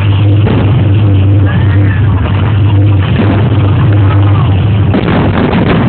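New Year fireworks going off, heard as a loud, constant low rumble with sharp bangs, a cluster of them about five seconds in, and faint crowd voices.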